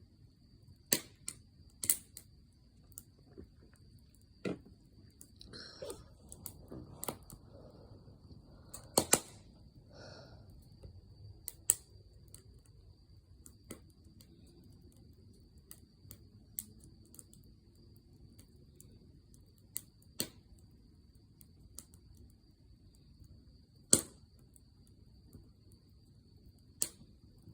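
Firewood crackling in a campfire: sharp, irregular pops and snaps, a few of them loud, over the low soft rush of the flames.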